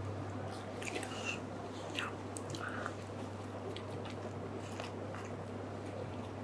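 Close-miked chewing and biting of food, with scattered soft wet mouth clicks, over a steady low hum.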